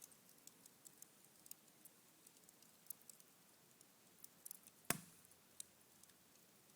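Cherry-wood embers in a fireplace crackling faintly, with scattered small ticks and one sharper pop about five seconds in.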